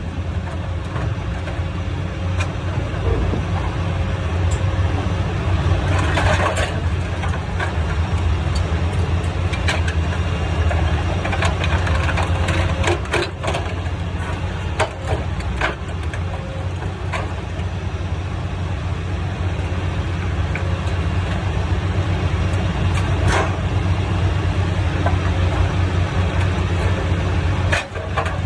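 Sierra T550 logger baler shear running steadily under power, its engine and hydraulics making a constant low drone, with scattered metal clanks and bangs as the shear works a steel truck frame into scrap-sized pieces.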